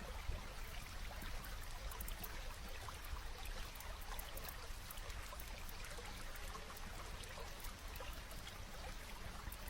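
Steady rain falling, with many small, sharp crackles of a wood fire scattered through it.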